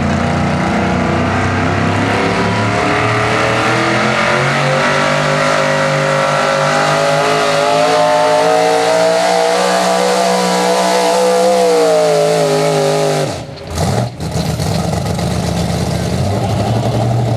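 A 4x4 pulling truck's engine running hard under load, its pitch climbing slowly for several seconds, then dropping off sharply about thirteen seconds in and settling to a steady idle.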